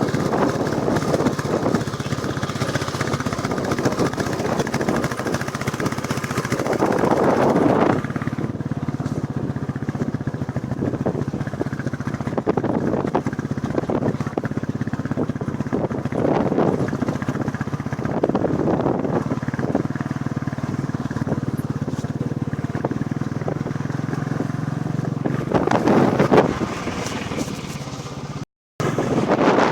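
Royal Enfield Classic 350's single-cylinder engine running steadily while riding, with wind rushing over the microphone in surges. The sound cuts out briefly near the end.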